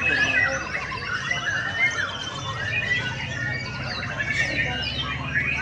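Many caged songbirds singing at once: a dense, overlapping mix of chirps, whistles and quick rising and falling notes, over a steady low hum.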